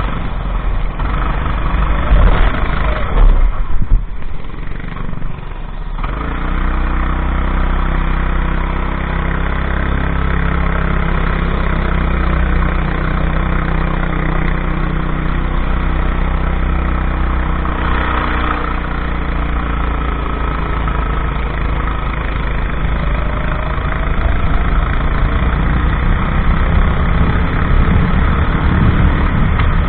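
Go-kart engine running continuously. Rough, uneven noise for the first few seconds gives way to a steady low engine hum, with the pitch rising a little near the end.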